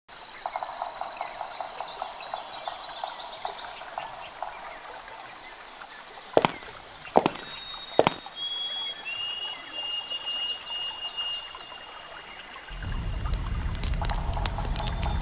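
Night-time forest ambience of pulsing insect or frog chirps with a few sharp clicks. About 13 seconds in, a louder low rumbling noise with rapid crackling clicks takes over.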